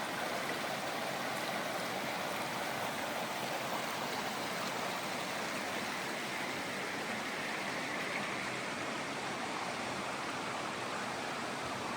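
Steady sound of a shallow river running, an even wash of flowing water.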